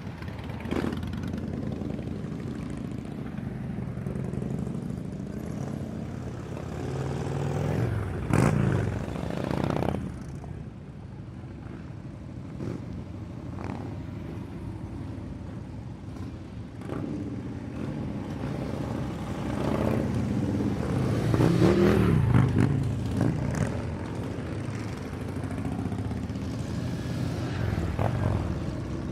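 Several motorcycles running, with the engine note rising and falling as bikes rev and pass close, the loudest passes about eight seconds in and again around twenty-two seconds.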